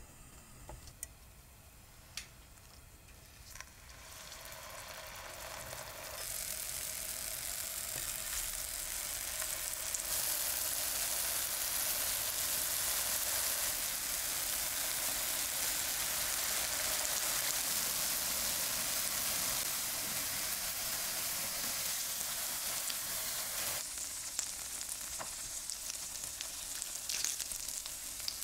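Potato-cheese pancakes frying in shallow oil in a nonstick pan, sizzling. After a few light clicks at first, the sizzle builds over several seconds, holds steady, and softens a little near the end with scattered pops.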